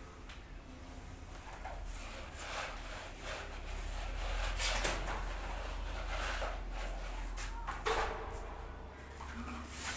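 Scattered knocks, scrapes and rubbing of objects being handled, over a steady low hum, with the sharpest clatter about five and eight seconds in.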